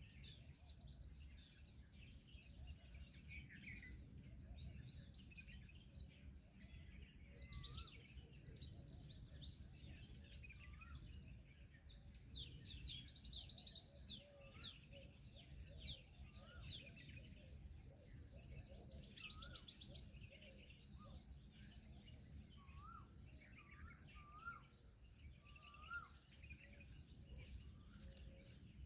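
Several small birds chirping and twittering at once, with bursts of rapid high trills, over a faint steady low rumble.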